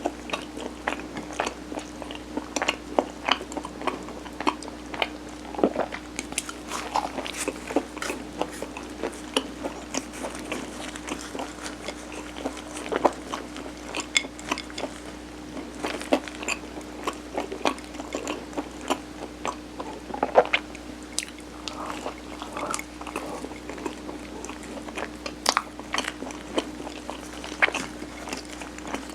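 Close-miked chewing of sticky steamed rice cake layered with mung bean: wet, irregular mouth clicks and smacks, a few every second, with a steady low hum underneath.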